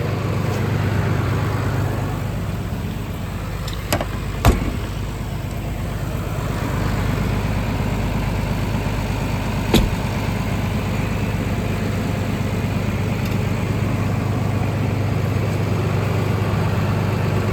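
Engine idling steadily, with three sharp clicks or knocks over it: two close together about four seconds in and one near ten seconds.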